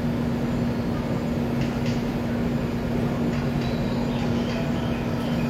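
Commuter train running at steady speed: a constant rumble of wheels on rails with a steady low hum.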